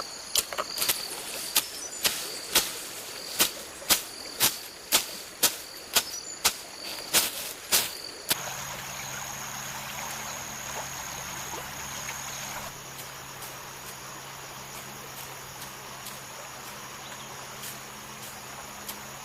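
Insects chirring steadily, with sharp knocks about one to two a second for the first eight seconds; then the knocks stop and a low steady hum sounds under the insects.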